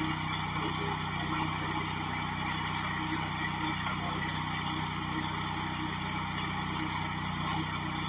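Gas-engine pressure washer running at a steady speed, its engine hum under an even high hiss of spray.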